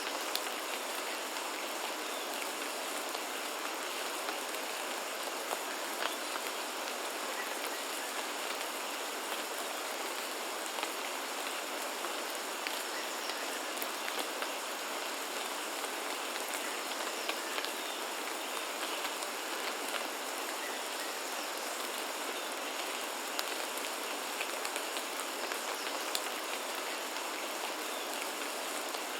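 Steady rainfall, an even hiss with many individual drops striking sharply at random moments.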